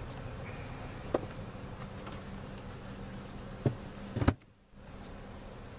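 Honeybees buzzing steadily around an open hive, with a few sharp knocks, the loudest a little over four seconds in, after which the sound drops out briefly.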